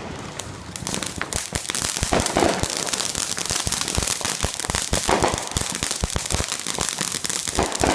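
Fireworks crackling, a rapid, unbroken string of sharp pops and cracks that starts about a second in.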